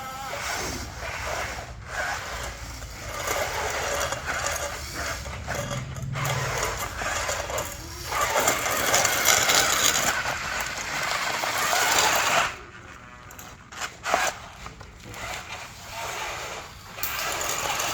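Huina radio-controlled toy bulldozer working: its small electric motors running and its tracks and blade scraping and rattling, rising and falling in uneven surges. The sound drops away briefly a little past two-thirds of the way through, then picks up again.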